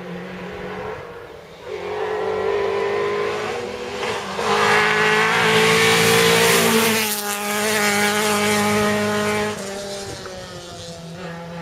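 A historic rally car's engine running hard on a tarmac special stage, growing loud as the car comes close. It is loudest about five to seven seconds in, its note drops about seven seconds in, and it gets quieter after about nine and a half seconds.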